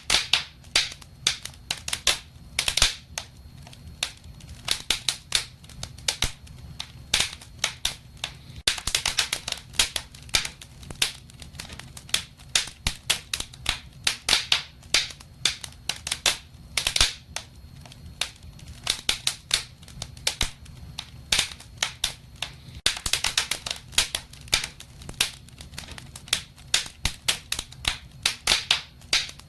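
Wood fire in a fireplace crackling, with frequent sharp irregular pops and snaps over a low steady rumble.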